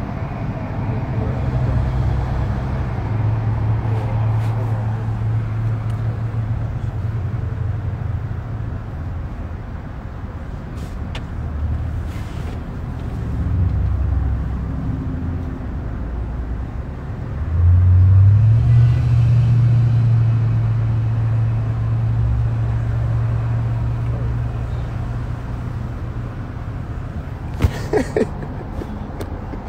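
Car engine idling, heard from inside the cabin as a steady low hum that steps up in pitch and gets louder about two-thirds of the way through. A few sharp clicks come near the end.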